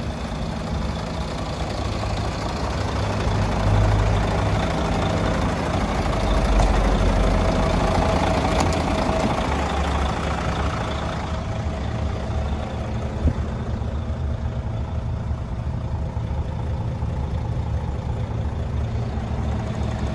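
Mercedes-Benz Actros 2631 truck's diesel engine running, louder and fuller for several seconds in the middle, then settling back to a steady idle. A single sharp knock comes about two-thirds of the way through.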